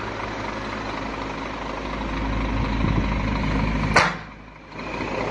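Scania truck diesel engine running steadily and getting gradually louder, with one sharp burst about four seconds in, after which the sound drops briefly before building again.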